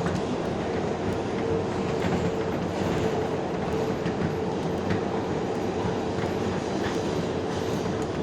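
R142A subway car running at speed between stations, heard from inside the car: a steady rumble of wheels on rail with a steady hum and scattered clicks of the wheels over rail joints.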